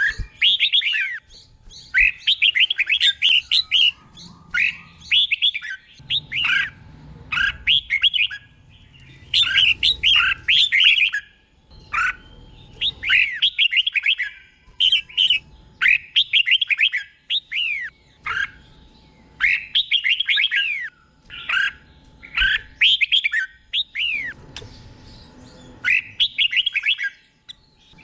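Red-whiskered bulbul singing: short phrases of quick, slurred whistles, one after another with brief pauses between them.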